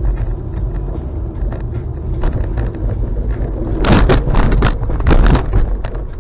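A car driving, with a steady low rumble of road and engine. About four seconds in comes a cluster of sharp knocks and crunches lasting a second or so.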